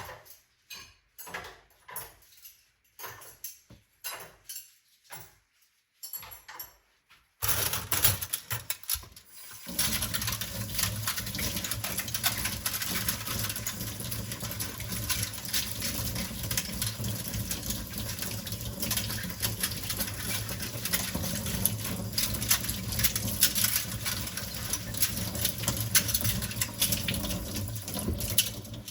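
Dishes and cutlery clinking and knocking in a sink, a few separate clatters. About seven seconds in, the kitchen tap is turned on and water runs steadily into the sink.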